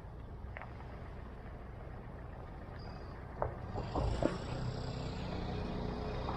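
Steady low outdoor rumble, with a motor vehicle's engine hum coming in about four seconds in and growing a little louder, and a few light knocks just before it.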